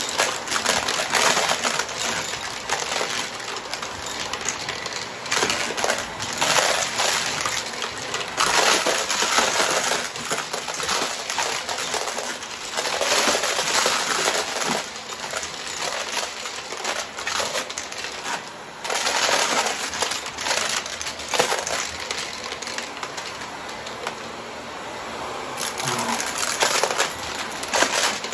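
Vacuum cleaner running while sucking up coins, which rattle and clatter through it in dense, irregular surges.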